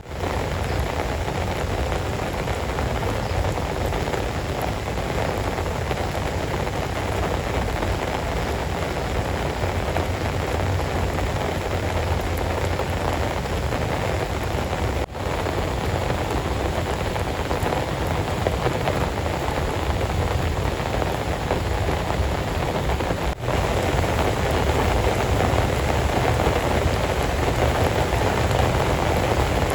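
Heavy rain falling steadily, a dense continuous hiss and patter, cutting out for a split second twice.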